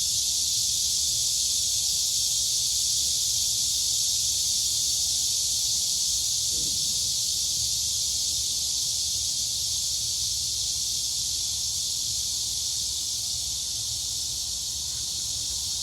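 Dense, steady chorus of crickets and cicadas: a continuous high-pitched buzzing hiss that eases slightly over the last few seconds.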